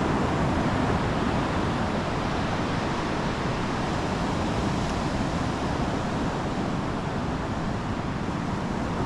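Steady ocean surf on the beach, with wind rumbling on the microphone.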